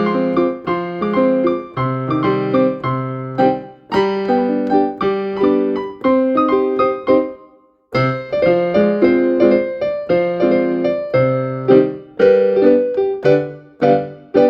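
A piano-toned keyboard playing a gentle melody over chords and low bass notes, each note struck and then dying away. The playing breaks off briefly about eight seconds in, then picks up again.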